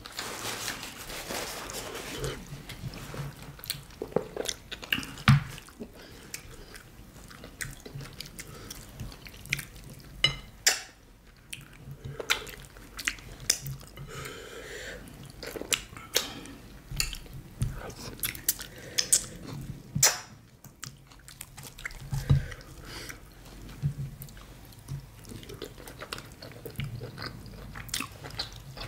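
Close-miked eating of fufu and banga soup by hand: wet chewing and mouth sounds, with many irregular sharp clicks.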